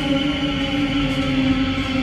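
Electric train's steady whine of several tones together, slowly dropping in pitch as the train slows, over a low rumble.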